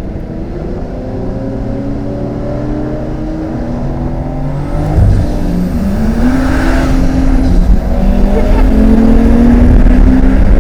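Ford Falcon XR6 Turbo's turbocharged straight-six accelerating on a wet track, heard from the cabin: the engine note climbs steadily, dips and jumps about halfway through as the throttle is lifted or a gear is changed, then climbs again, growing louder toward the end.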